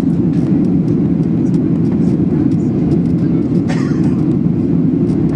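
Steady cabin drone of a Boeing 737-800 in flight: the CFM56 turbofan engines and airflow past the fuselage heard from inside the cabin, with a brief click about three and a half seconds in.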